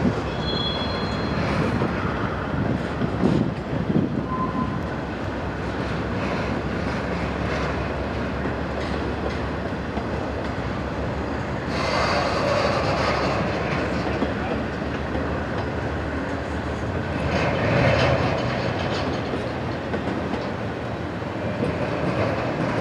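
CSX intermodal freight train's container cars rolling by, steel wheels clacking over the rails, with brief high wheel squeals near the start and again about four seconds in. The noise swells louder twice, about halfway through and again later on.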